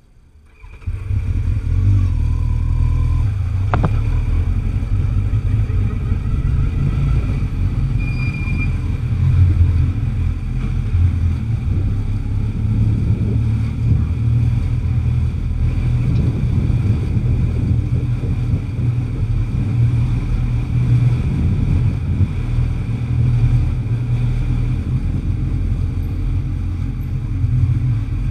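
Kawasaki Z1000's inline-four engine running at low speed, a steady deep rumble that comes in suddenly about a second in.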